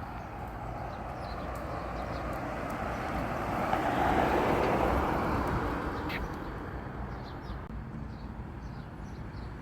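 A road vehicle passing by, its engine and tyre noise swelling to a peak about four seconds in and then fading away, with small birds chirping faintly.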